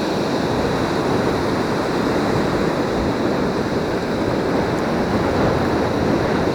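Ocean surf washing over the beach: a steady rush of waves with no break, and a faint steady high tone throughout.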